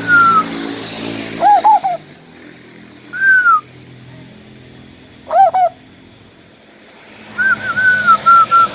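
Asian koel calling: clear whistled notes, one falling at the start and an arched one about three seconds in, then near the end a quick run of about eight short notes. Twice a louder, lower double call with overtones cuts in, and a faint low hum runs underneath.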